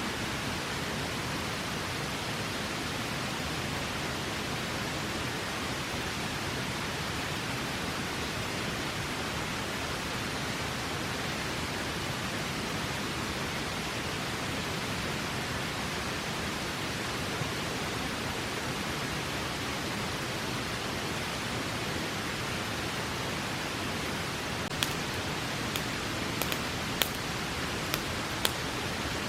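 Steady rushing of a river, with a handful of sharp crackles and pops from a wood campfire in the last few seconds.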